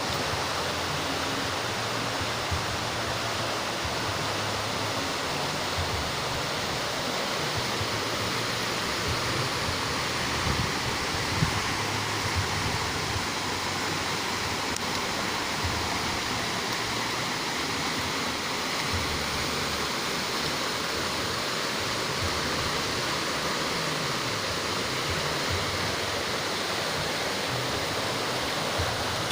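Spring water rushing and splashing steadily, like a stream or small cascade.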